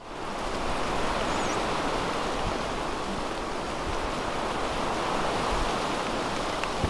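Steady rain falling on the leaves of a tree canopy, an even rushing hiss that fades in at the start. A single sharp knock comes right at the end.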